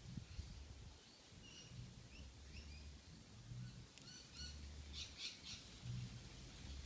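Faint bird chirps in the background, with a sharp click about four seconds in and a brief cluster of high clicks around five seconds, over a low hum that comes and goes.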